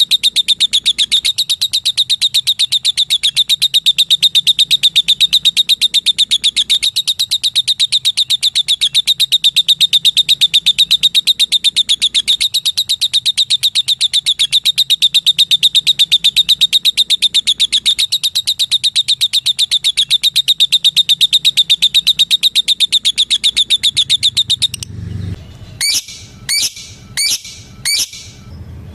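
Female lovebird giving a long, fast, unbroken run of high ticking notes, the 'ngetik panjang' call. The run stops about 25 seconds in and is followed by five short separate chirps.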